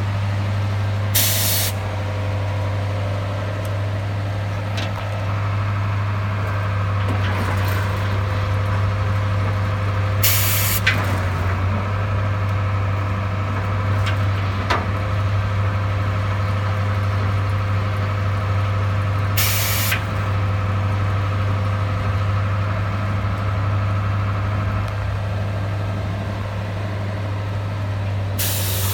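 Line puller truck's engine running steadily, with four short bursts of air hiss about nine seconds apart, like pneumatic brake or valve releases as the drums are released and engaged.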